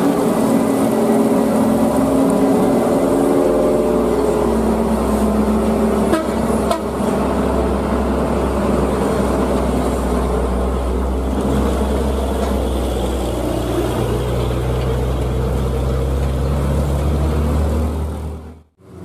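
Heavy truck engine running under load, its pitch wavering at first, then settling into a deep steady drone with a tone that slowly rises over the last few seconds. A short sharp knock about six seconds in, and the sound cuts out abruptly near the end.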